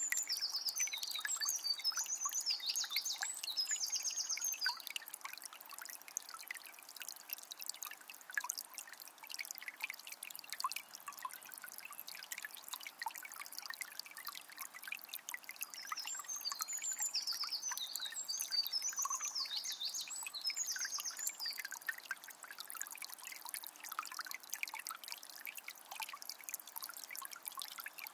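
Shallow forest river trickling and burbling steadily. A songbird sings twice over it: a few seconds of quick, high, repeated notes at the start, and again about two-thirds of the way through.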